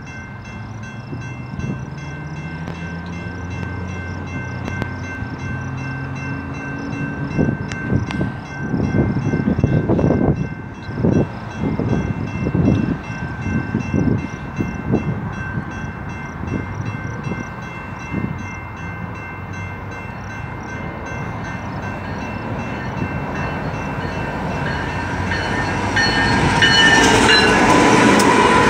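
BNSF coal train approaching and reaching the microphone, its diesel locomotive growing louder and its horn sounding in the last few seconds, the pitch falling as the locomotive goes by. Gusts of wind buffet the microphone in the middle, and a faint steady ringing runs underneath.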